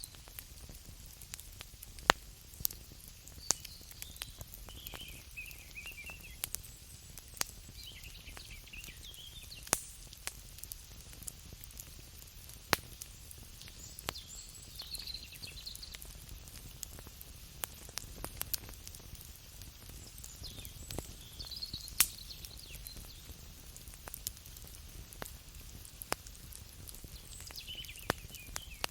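Campfire crackling and popping: irregular sharp snaps of wood, some much louder than others, over a low steady rumble of the flames.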